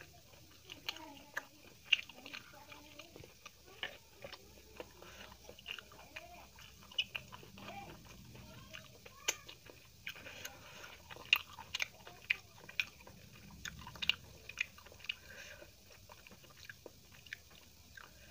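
Close-miked chewing of a mouthful of rice and dal, with frequent sharp wet mouth clicks and lip smacks coming irregularly, a few a second.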